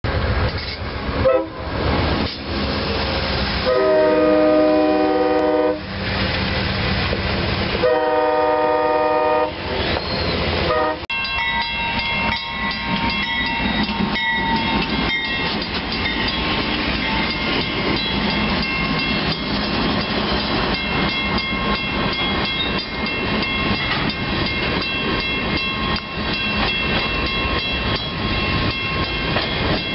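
CN freight locomotive's air horn sounding two long blasts, then the grain train rolling past with a steady rumble and clatter and several steady high-pitched tones over it.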